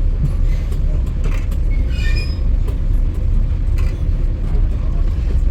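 Passenger train rolling along the track: a steady low rumble with scattered light clicks, and a few faint short squeaks about two seconds in.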